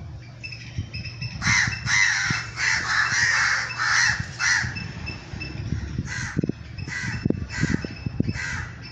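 Crow cawing: a quick run of about eight harsh caws, then four slower, spaced caws near the end.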